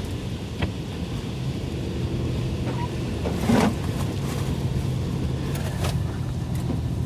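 A road vehicle driving on a wet, slushy snow-covered road: a steady low engine hum under tyre noise, with a few brief knocks or splashes.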